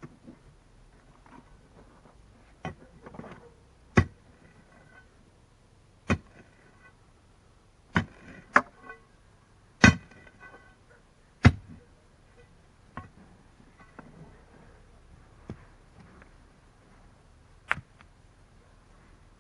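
A metal shovel digging in clayey soil among stones: about ten sharp knocks a second or two apart, several with a brief metallic ring as the blade strikes stone.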